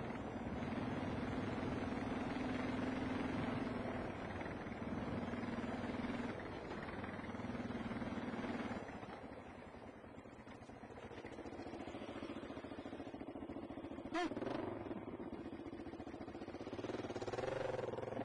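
Single-cylinder four-stroke dual-sport motorcycle engine running under way on a dirt trail, with wind noise. Its note breaks briefly a few times in the first half, drops back for a couple of seconds, then runs steady, with one sharp knock about fourteen seconds in and the engine revving up near the end.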